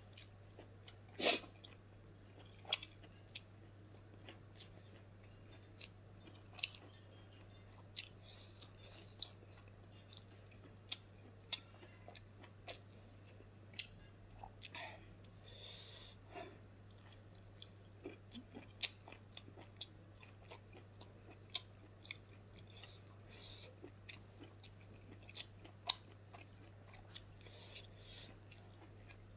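Close-up mouth sounds of a person chewing smoked pork and rice: irregular wet smacks and sharp clicks, a few of them louder, over a steady low hum.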